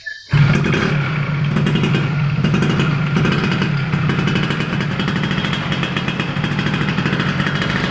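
Motorcycle engine starting about a third of a second in, then running steadily through its AHM exhaust.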